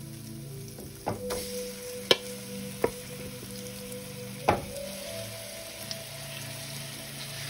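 Curry-seasoned chicken pieces dropped into hot oil in a frying pan, sizzling. A few sharp knocks come from the steel bowl and wooden spoon as the pieces are pushed out, the loudest about two seconds in and about four and a half seconds in.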